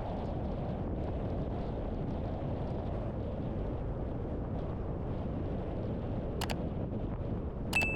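Steady low rumble of a car driving along a street, the road and engine noise of the moving vehicle. Near the end come two sharp clicks, the second followed by a brief high ring.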